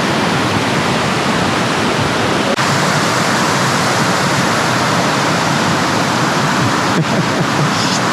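Morans Falls rushing steadily: a loud, even roar of water where the creek pours over the top of the waterfall.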